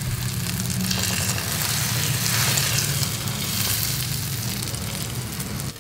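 Eggplant omelettes frying in hot oil in a nonstick skillet: a steady sizzle, with a low hum underneath. It cuts off suddenly near the end.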